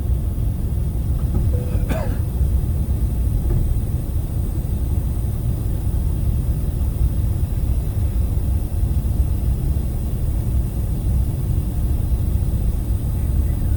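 Steady low rumble inside the cabin of an Airbus A380 airliner: engine and airflow noise on the approach to landing. There is a brief knock about two seconds in.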